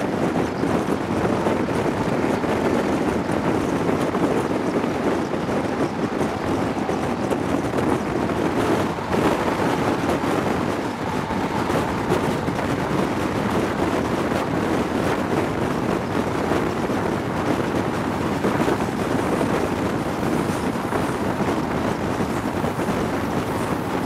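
Steady rush of wind on a microphone held out of the window of an InterCity 125 High Speed Train running at speed, over the train's running noise.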